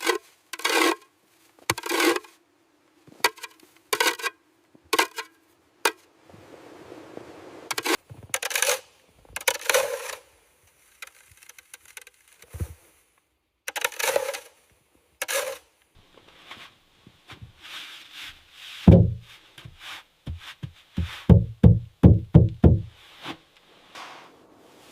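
A string of short scraping, crunching strokes, each under a second and spaced a second or so apart, then near the end a fast run of about a dozen dull knocks.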